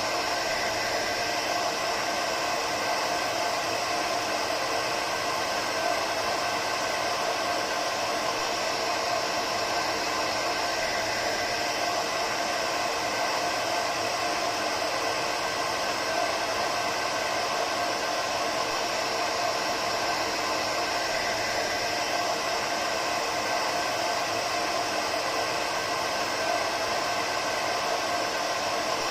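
Hair dryer running steadily: an even rushing of air with a faint steady motor hum, used as white noise for lulling a baby to sleep.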